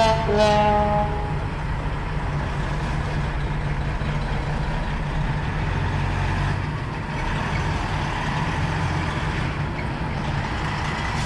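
Semi truck's diesel engine running steadily at low speed as it creeps up to a toll booth, heard from inside the cab as a steady low hum.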